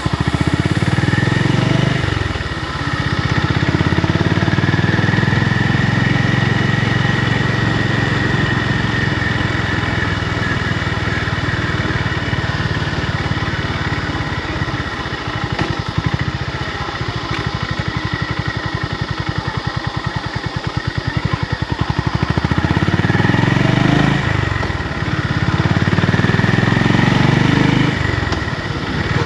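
Honda GB350's single-cylinder engine running, with its note dropping and climbing again a few times, near the start and twice near the end.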